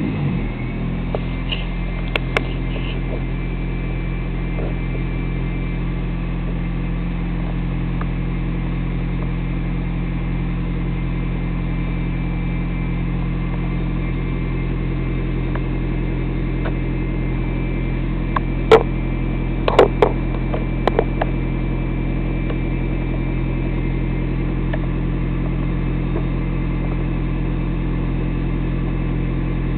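Mazda MPV's 2.3-litre turbocharged four-cylinder engine (L3-VDT) idling steadily, with a few sharp clicks or knocks about two-thirds of the way in.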